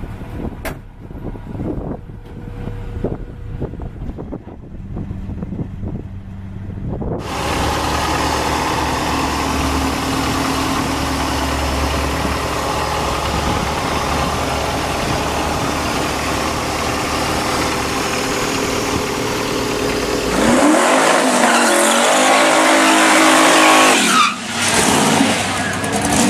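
A car engine, first low and steady, then running louder, then revving with a rising pitch, in separate sections joined by sudden cuts.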